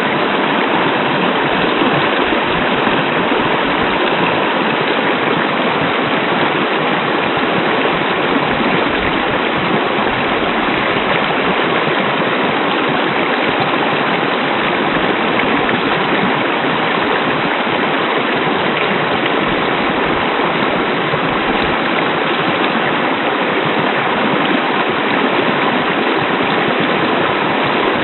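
Hot-spring waterfall: water falling and running steadily, an even rushing with no breaks.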